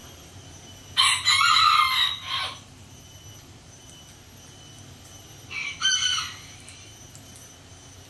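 Two loud bird calls: a long one lasting about a second and a half, starting about a second in, and a shorter one of under a second about five and a half seconds in.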